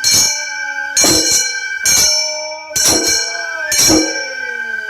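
Gion-bayashi festival music: small hand gongs (kane) struck in a brisk repeating pattern, each stroke ringing, over a high held flute note.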